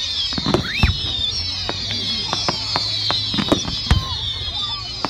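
Fireworks display: a quick run of sharp bangs and crackling pops from bursting shells and ground fountains over a steady high hiss, with a short rising whistle about a second in.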